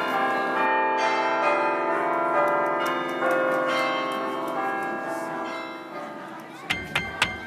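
Bells ringing, many sustained tones overlapping and dying away. Near the end, a quick, even ticking beat starts up.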